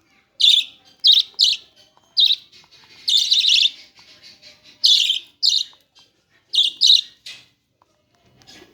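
Budgerigars chirping and chattering in short repeated calls, with a longer burst of chatter about three seconds in.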